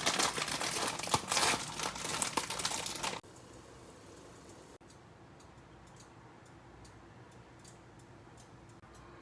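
Plastic ramen packaging crinkling and crackling for about three seconds, then stopping abruptly, followed by a few faint light clicks.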